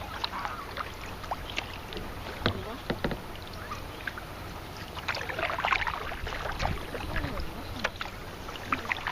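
Kayak paddling on calm water: the paddle blades dipping and dripping in irregular small splashes, with a denser run of splashing about five seconds in.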